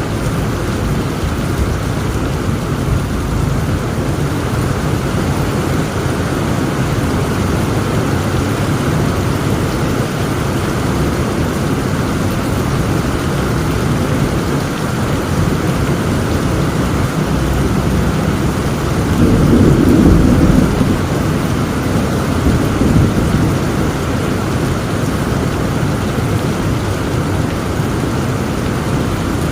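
Heavy rain falling steadily, with a low rumble of thunder swelling about two-thirds of the way through and a smaller one just after.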